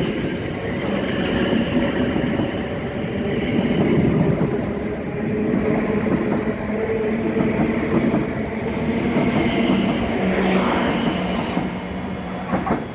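A train running through the station: a steady, loud rumble of wheels on rails with a low hum, which drops away right at the end.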